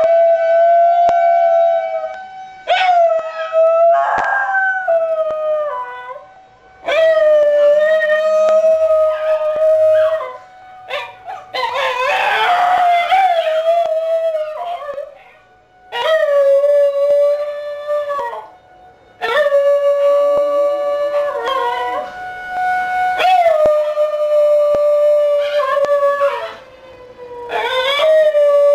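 Basenji howling along with a tornado siren: about eight long, wavering howls of two to three seconds each with short breaks, over the siren's steady tone, which starts to wind down in pitch near the end.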